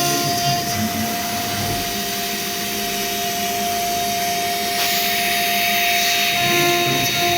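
CNC router spindle running with a steady whine over a hiss as its fine bit cuts a lattice into a 12 mm Corian solid-surface sheet. The hiss grows brighter about five seconds in.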